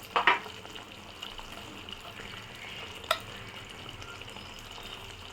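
Masala faintly sizzling in a kadai, with sharp knocks of a utensil on the pan just after the start and once about three seconds in.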